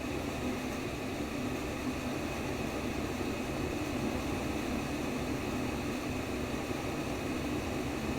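Steady, unchanging white noise of the kind played to lull a baby to sleep: an even hiss, heaviest in a low rushing band.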